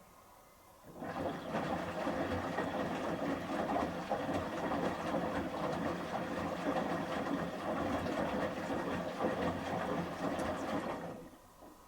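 Samsung front-loading washing machine's drum turning during the rinse, tumbling shirts through the rinse water with a sloshing, rumbling noise that starts about a second in and stops about ten seconds later.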